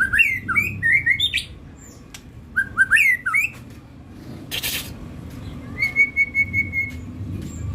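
A songbird singing in two short bursts of quick chirping notes, then a fast run of even repeated notes. A sharp click sounds about four and a half seconds in.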